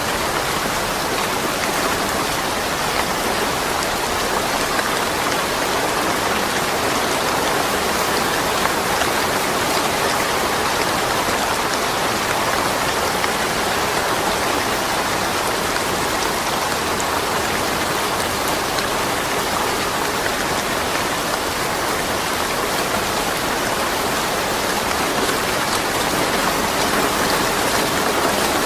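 Steady rainfall with no thunder: a dense, even hiss of rain with fine pattering drops.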